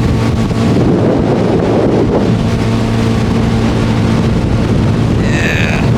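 75 hp Evinrude Starflight two-stroke outboard running steadily under way, over water rushing past the hull and wind buffeting the microphone. A brief high-pitched cry cuts in near the end.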